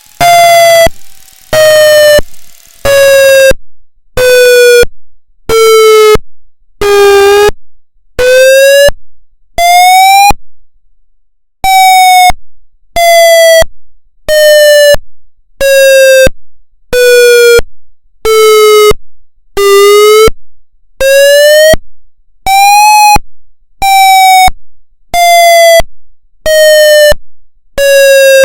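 Federal MCP siren sounding its pulse wail signal: short, loud tone pulses about once a second, their pitch sliding slowly down and back up like a wail. There is a short break about eleven seconds in.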